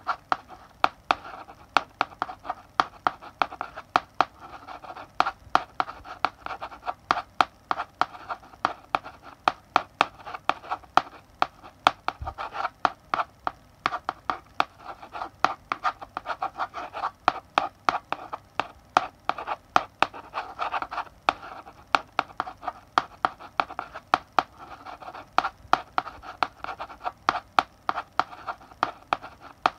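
Chalk writing on a blackboard: quick scratchy strokes between sharp taps of the chalk against the board, several a second, with brief pauses between words.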